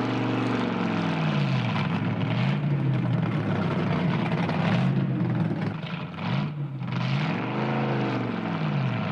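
Hot-rodded 1932 Ford coupe's V8 engine running loud and lumpy as the car pulls away. It is revved up and eased back about once near the start and again near the end, with steadier running between.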